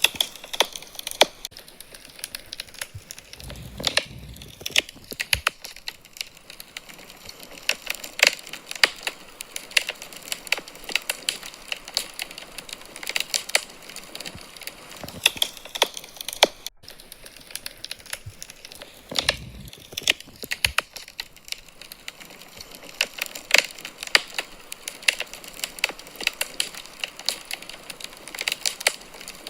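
Wood fire in a fireplace crackling, with many irregular sharp pops and snaps over a soft steady hiss. The sound cuts out for an instant about seventeen seconds in.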